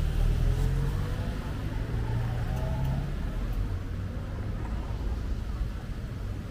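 A car engine running close by, a steady low rumble that is loudest for the first three seconds and then eases to a softer rumble.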